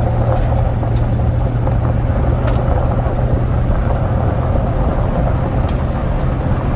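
Vehicle running along with a steady low engine drone and road noise, unchanged throughout.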